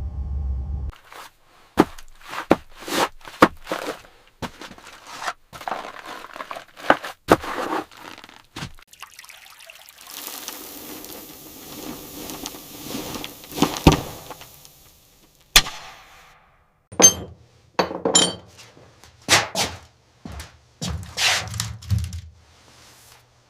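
Irregular series of knocks, thuds and clinks from hands working with wood and tools, with a few seconds of scraping and rustling in the middle.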